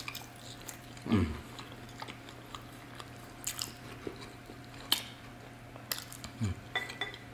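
Close-up chewing and biting of roasted potatoes and chicken, with a few sharp clicks of a fork and knife against the plate. Twice a short hum falls in pitch.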